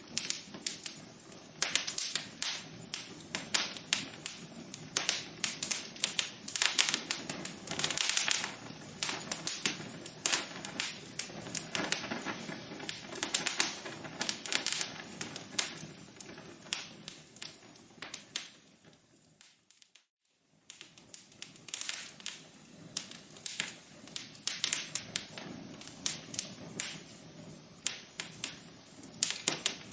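Wood fire in a fireplace crackling, with dense irregular sharp pops and snaps over a steady hiss of burning. About two-thirds of the way through the sound fades almost to silence for about a second, then the crackling resumes.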